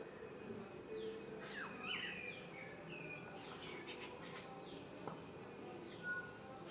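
Several wild birds calling with short, quick downward-sweeping chirps, over a steady high-pitched insect drone.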